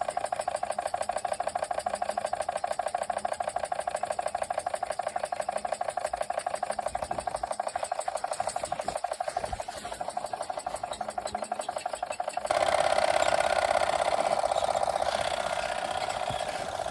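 Small oscillating toy steam engine running, its exhaust chuffing through the chimney in a fast, even rhythm. It is losing steam as the fuel tablet burns down. About twelve seconds in it suddenly gets louder, then slowly fades.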